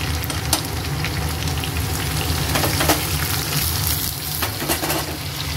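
Pork, soya chunks and vegetables sizzling in hot oil in a frying pan, with scattered crackles as a wooden spatula stirs them.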